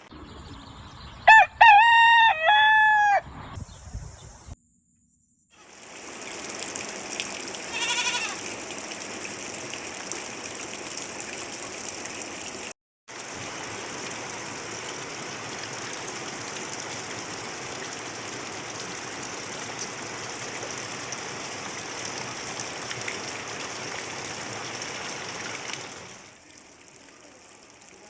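A rooster crows loudly about a second in. After a short break, a steady hiss of rain follows, with a fainter call about eight seconds in.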